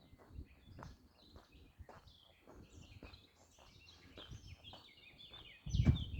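Birds chirping in quick, short, high notes, growing busier in the second half, over scattered faint clicks. A loud low rumble cuts in just before the end.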